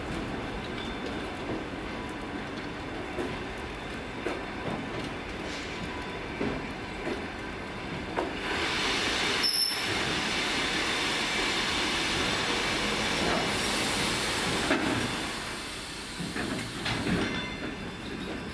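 Passenger coaches rolling slowly past, wheels rumbling and clicking over the rail joints. From about eight seconds in to about fifteen, a loud hissing screech from the brakes as the train slows to a stop, then the rumble fades.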